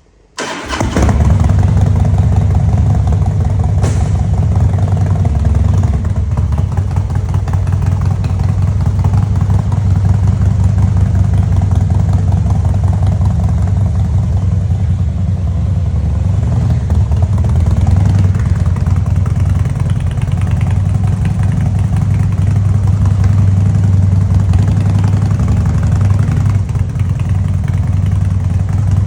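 Harley-Davidson motorcycle engine starting about half a second in, then idling steadily with a low, even rumble.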